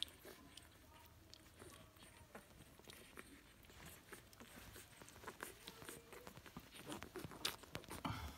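Puppies moving about and nibbling: faint, scattered small clicks and scuffles, busier in the last few seconds.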